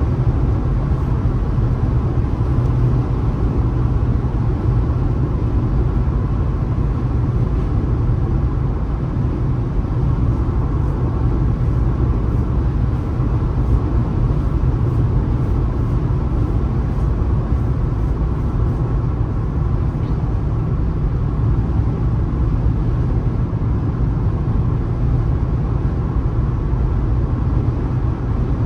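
Car driving at steady speed on a highway: a constant low rumble of road and engine noise.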